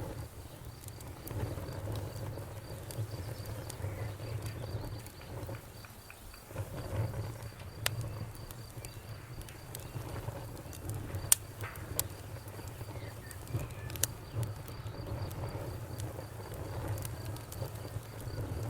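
Campfire burning with a low flutter and scattered crackles, with a few sharp snaps in the middle being the loudest sounds. Crickets chirp in a faint, even, high pulse behind it.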